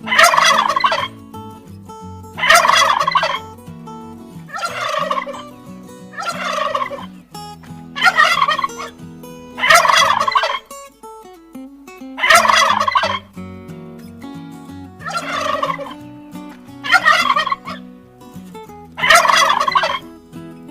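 Turkey gobbling: about ten rattling gobbles in a row, one roughly every two seconds, each falling in pitch.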